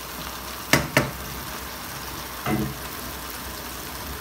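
Smoked fish frying steadily in a non-stick pot with a sizzling hiss, while a wooden spoon knocks against the pot twice in quick succession about three-quarters of a second in and once more, softer, about two and a half seconds in.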